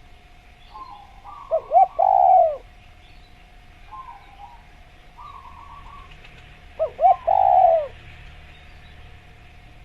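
Spotted dove (tekukur) cooing twice, each call two short coos followed by a longer falling coo.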